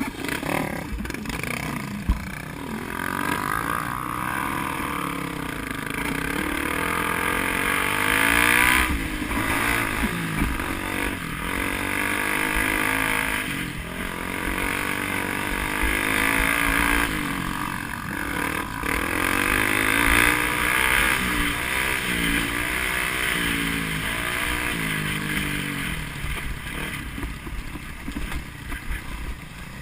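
A vehicle engine repeatedly revving up and easing off, its pitch rising and falling again and again as it is driven hard through a run of turns.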